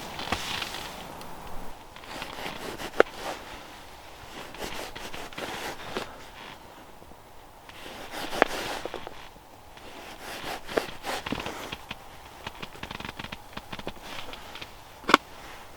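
Footsteps crunching in deep snow, uneven and irregular, mixed with small clicks and three sharper knocks spread through.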